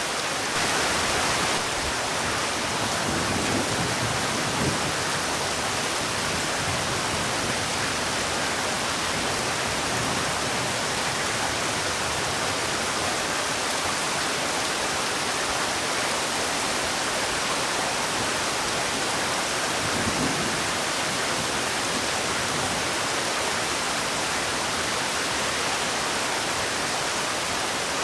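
Heavy rain falling steadily, an even hiss with no thunder or other distinct events.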